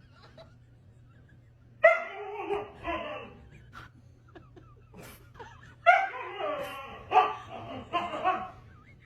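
A dog vocalizing in answer to being asked to 'talk': two drawn-out, wavering howl-like calls, a shorter one about two seconds in and a longer one about six seconds in.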